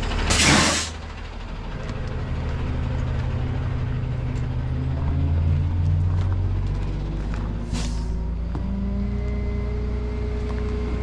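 Truck engine running steadily, its pitch stepping up and down a few times, with a loud burst of hiss just after the start and a shorter one about eight seconds in.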